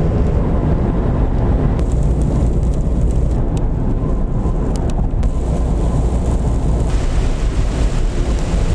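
Camper van driving: a steady, loud low rumble of engine and road noise, with a few light clicks.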